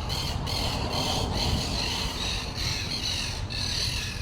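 Birds squawking over and over in harsh calls, over a steady low rumble.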